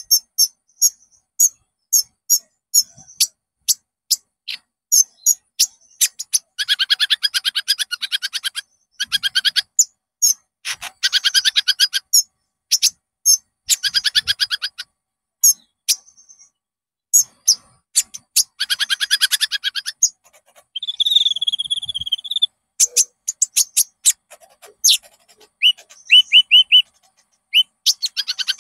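Common iora (konin) singing: sharp chirps and long, fast chattering trills over and over, with a short whistled warble about three-quarters of the way through.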